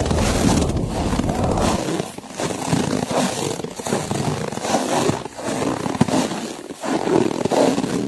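Footsteps crunching through snow, a step about every one and a half seconds.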